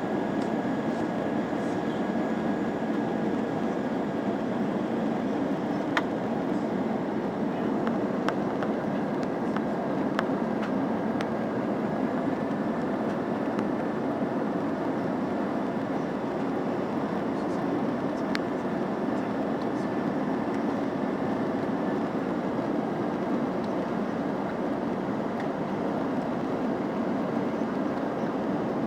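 Steady cabin noise inside an Airbus A319 airliner: engine and airflow drone with a faint steady whine and occasional light rattles and clicks.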